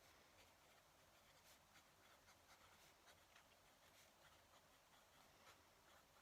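Fountain pen nib scratching faintly across paper in short, irregular strokes as someone writes by hand.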